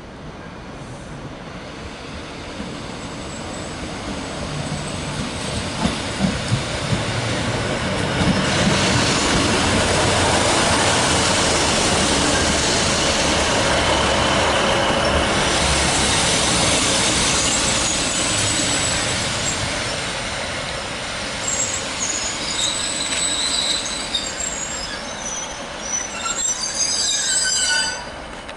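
A train running through a station. The rumble builds over several seconds and is loudest about a third of the way in. Near the end come high-pitched wheel squeals.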